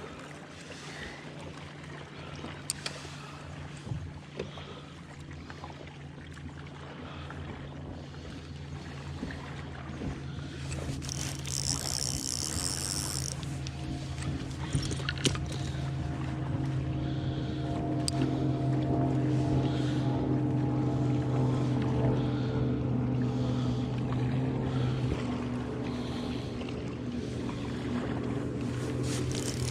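Steady motor hum of a boat on the water, with a few even tones. It swells louder through the middle and then eases off.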